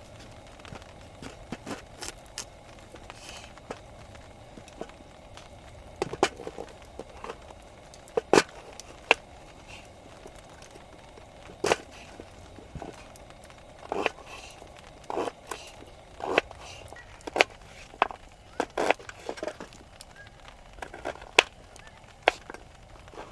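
Irregular sharp knocks and clacks, a dozen or more, of hard objects being handled, over a faint steady hum.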